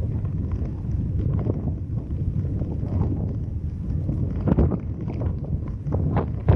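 Car driving: a steady low rumble of road and wind buffeting the microphone, with irregular small knocks and thumps throughout.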